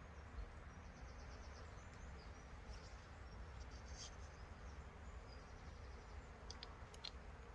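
Faint outdoor ambience: a steady low rumble with faint high-pitched chirping through the first half, and a few small clicks near the end.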